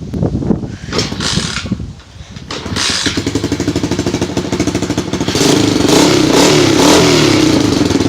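90cc dirt bike engine being started, catching about two and a half seconds in after a few knocks, then running and revved from about five seconds in with the pitch rising and falling. The carburettor has just been cleaned to cure a bog from fuel starvation, and the engine now runs.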